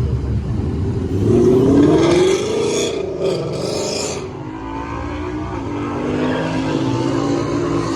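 A car engine revs once, its pitch rising and then falling back about a second in. It then settles into a steady run.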